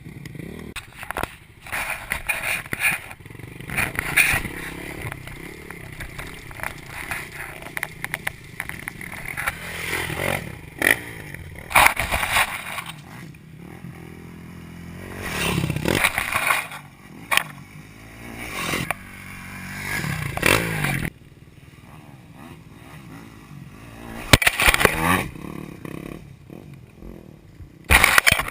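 Dirt bike engine revving up and easing off again and again as it is ridden, with scraping and rattling noise mixed in; it drops to a quieter run for a few seconds past the two-thirds mark.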